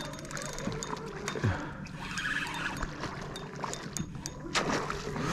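Water splashing and trickling beside a kayak as a hooked spotted seatrout is brought in, with a louder splash about four and a half seconds in.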